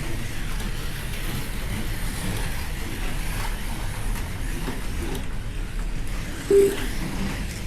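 Slot cars running on the track during a heat: a steady mechanical whirring noise of their small electric motors and wheels, with one short electronic beep about six and a half seconds in.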